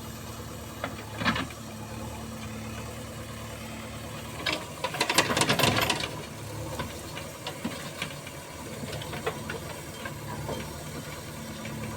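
A diesel engine of the backhoe loader or tractor running steadily, with a burst of rattling and clattering about four and a half seconds in that lasts about a second and a half.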